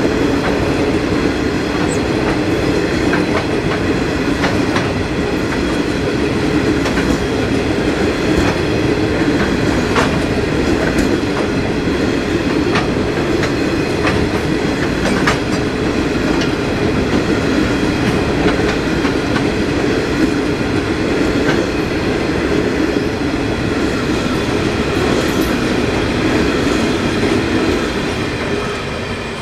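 Loaded freight hopper wagons rolling past: a steady rumble of steel wheels on rail with irregular clicks from the wheels crossing the rail joints, easing off slightly near the end.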